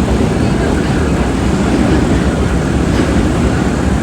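Vintage R1/R9 subway train running, a steady loud rumble of wheels and motors on the track.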